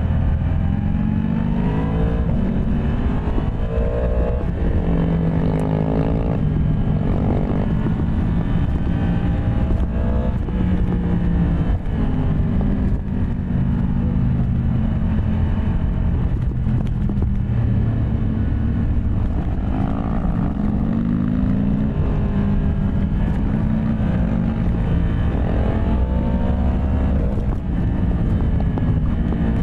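Yamaha MT-10 SP motorcycle's crossplane inline-four engine running hard on the road, its pitch rising and falling again and again as the rider accelerates, shifts gears and eases off.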